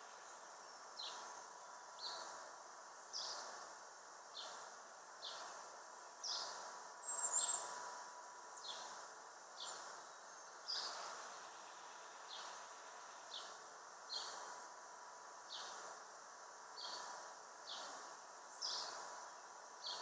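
A bird calling outdoors: a short, high, downward-sliding note repeated about once a second, with one brief louder, higher sound about seven seconds in.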